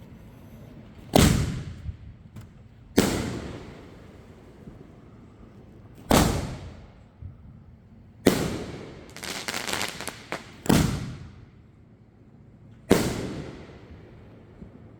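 62 mm aerial firework shells from a visco-fused rack going off one after another: about six loud booms, spaced roughly two seconds apart, each trailing off in a rumbling echo, with a quick burst of crackling near the middle.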